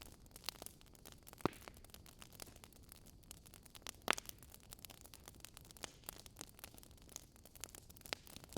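Wood fire crackling softly, with many small ticks and two sharper pops about one and a half and four seconds in.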